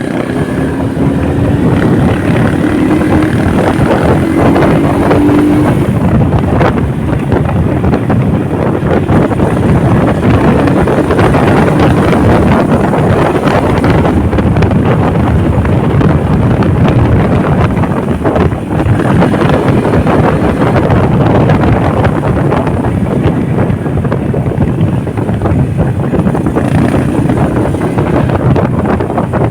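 Wind rushing over the microphone of a moving motorcycle, with its engine running underneath, a steady loud rush throughout. A faint engine tone rises slightly in pitch over the first few seconds.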